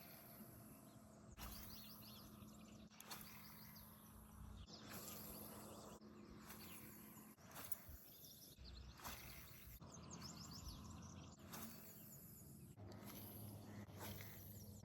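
Quiet outdoor ambience with faint bird chirps.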